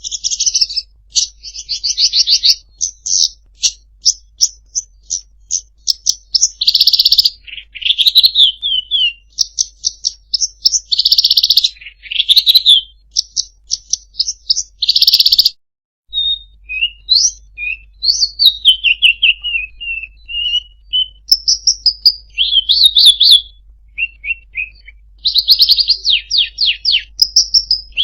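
Songbird song recorded as a masteran track for teaching caged birds. It is a fast, varied string of high chirps, trills and buzzy rattles, some phrases sliding downward, with a brief break just past halfway.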